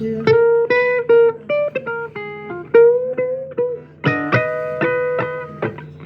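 Blues guitar playing an instrumental passage: single plucked notes, some bent upward in pitch, with a fuller burst of notes about four seconds in.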